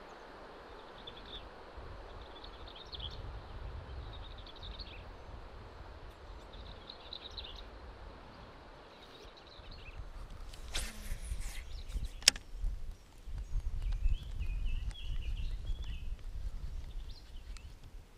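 Birds chirping on and off over a low outdoor rumble, with a brief rush and one sharp knock about eleven to twelve seconds in.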